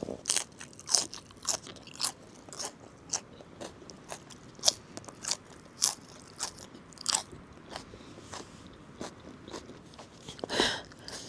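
Crisp crunching as cabbage leaves dipped in miso are bitten and chewed close to the microphone, about two crunches a second, thinning out after about seven seconds. A short louder sound comes near the end.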